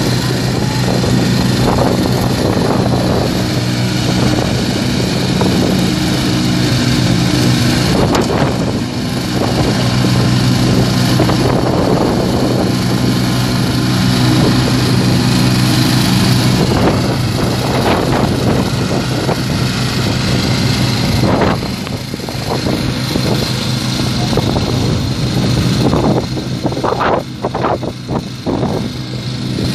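Ride-on lawn tractor engine running steadily under load: a constant low hum with rattle and hiss over it, dipping briefly about two thirds of the way through and becoming uneven near the end.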